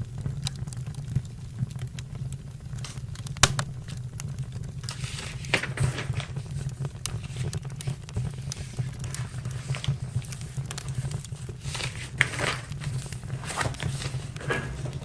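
Campfire crackling with irregular sharp pops, two louder ones about three and a half and twelve seconds in, over a steady low hum.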